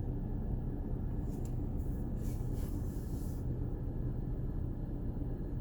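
Steady low rumble of a touchless car wash heard from inside the van's cabin, with a few short hisses between about one and a half and three and a half seconds in.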